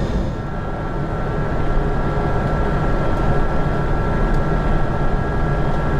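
Steady cabin noise inside an Airbus A380 airliner on the ground shortly before takeoff: a low rumble and air rush with a thin, steady high whine over it.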